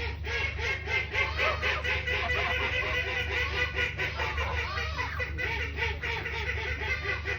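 A flock of domestic geese calling: many short honks overlapping in a continuous stream, over a steady low hum.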